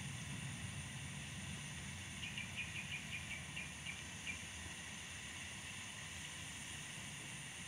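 Low rumble of a distant jet aircraft fading away over the first couple of seconds, under a steady high insect drone. About two seconds in a bird gives a quick run of a dozen or so short chirps lasting about two seconds.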